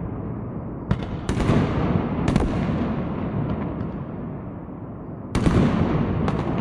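Aerial fireworks bursting: a series of sharp bangs, several in the first few seconds and a louder one near the end, each trailing off in a long, fading rumble.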